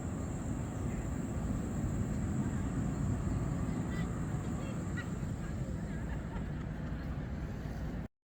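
Steady low rumble of street traffic with a faint high whine throughout, cutting off suddenly near the end.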